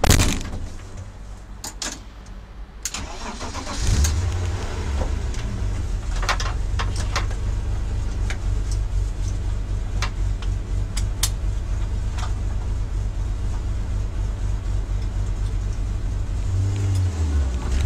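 A BMW car's engine starting about four seconds in, then running steadily with a low rumble. There is a sharp knock at the very start.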